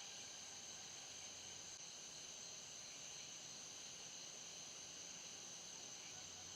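Faint, steady chorus of night insects, a constant high-pitched trill over a soft background hiss.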